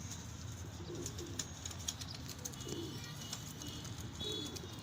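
Domestic pigeons cooing: several short, low coos at irregular intervals.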